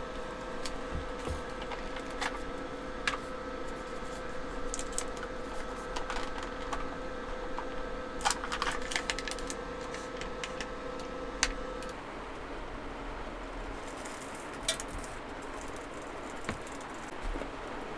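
Small clicks and clinks of food and utensils being handled, a cluster of them about eight seconds in, over a steady electrical hum that cuts off about twelve seconds in.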